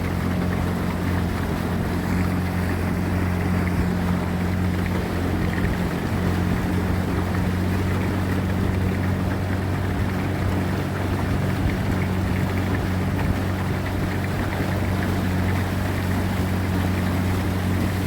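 Small boat's outboard motor running at a steady speed, a constant low hum that does not change pitch.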